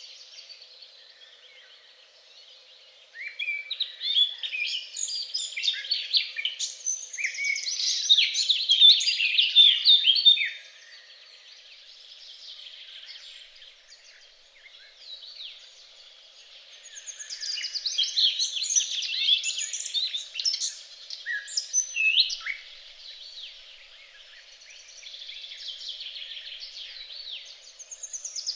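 Several songbirds singing and chirping together, busy overlapping trills and twitters in two louder bursts with quieter song between, over a faint steady low hum.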